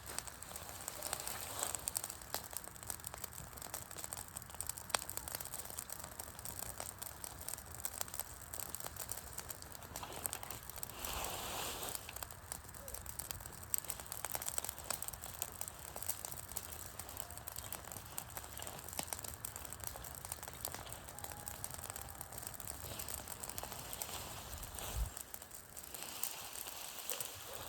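Wood campfire burning, its logs crackling and popping in many small irregular snaps. A brief louder rush comes about eleven seconds in, and a low thump near the end.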